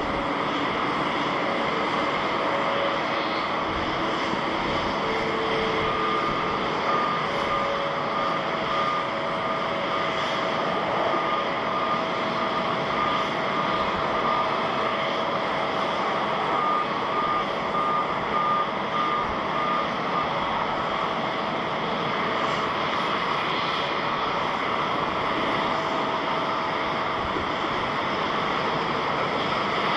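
Jet airliner engines running with a steady, even roar. A faint repeating electronic beep, like a ground vehicle's reversing alarm, sounds through the middle part.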